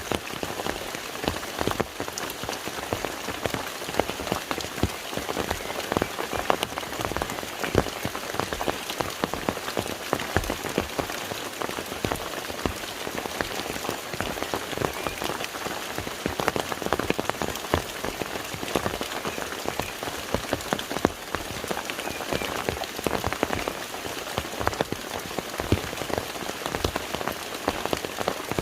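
Steady rain falling on a lake's surface: a dense, even patter with many distinct louder drop splashes scattered through it.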